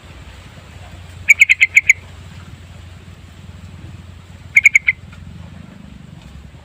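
Sooty-headed bulbul calling: a quick run of about six bright notes a little over a second in, then a shorter run of about four notes some three seconds later, over a steady low background hum.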